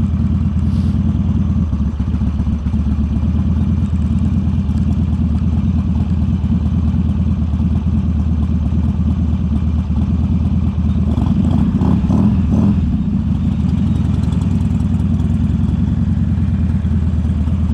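Buell XB9SX air-cooled V-twin with an aftermarket D&D exhaust running steadily under way, with a brief louder stretch about two-thirds through.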